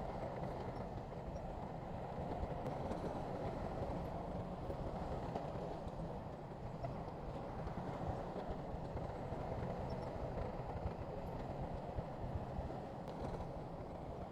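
Shantui bulldozer's diesel engine running steadily under work, with a continuous rattling clatter.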